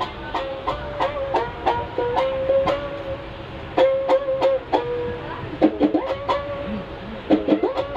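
A plucked string instrument playing a lively melody: quick, sharply plucked notes mixed with some held notes, over a steady low rumble.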